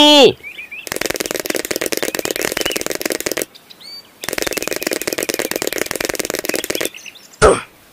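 Fast rattling clicks, a sound effect, in two stretches of about two and a half seconds each, with faint squeaky chirps in the short gap between them and one brief sharp sound near the end.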